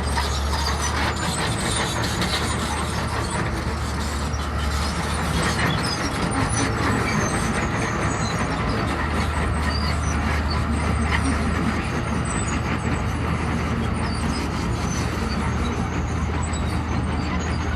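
Heavy diesel construction machinery running steadily: a low engine drone under continuous mechanical noise.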